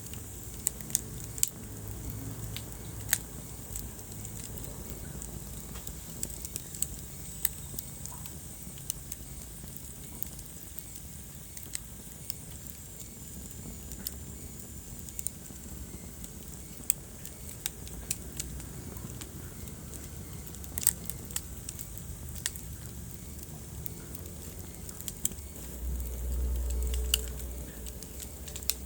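Wood fire crackling in a fireplace: sharp pops at irregular intervals over a low, steady rumble of burning. Near the end a louder low rumble swells for a second or two.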